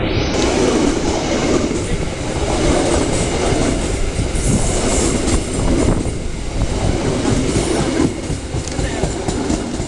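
Passenger train coaches passing at close range: a loud, steady rumble of wheels on the rails, with a few sharper clacks from the wheels crossing rail joints.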